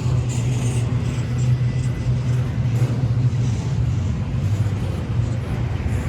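Norfolk Southern intermodal freight train rolling past, a steady low rumble of wheels on rail.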